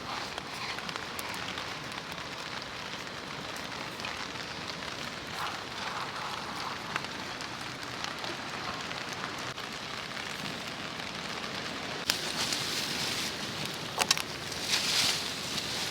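Steady rain falling, an even hiss with a few sharp ticks, growing louder for a couple of stretches near the end.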